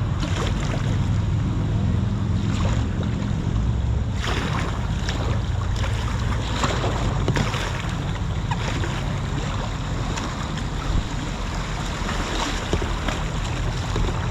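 River water splashing around a whitewater kayak over a steady low rumble of wind on the microphone, with irregular sharper splashes from about four seconds in.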